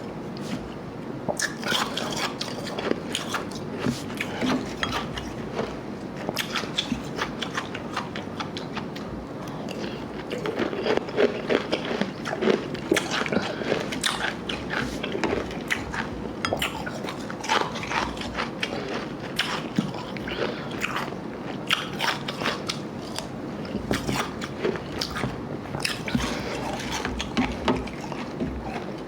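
Close-up crunching and chewing of ice, a mix of soft slushy ice and harder cubed ice, with many irregular crisp cracks over a low hum.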